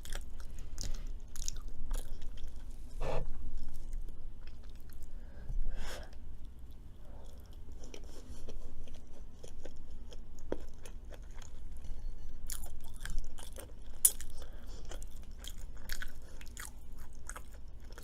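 Close-miked chewing of food: irregular crunches, bites and mouth clicks.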